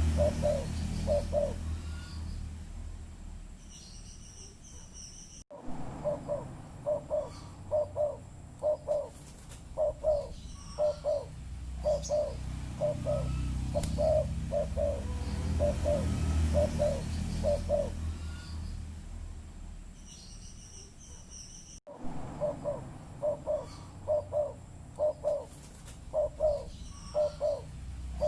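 Spotted dove (tekukur) cooing: long runs of short, low coo notes repeated in quick rhythm, breaking off for a few seconds and starting again. Faint chirps from a small bird come in now and then over a steady low background rumble.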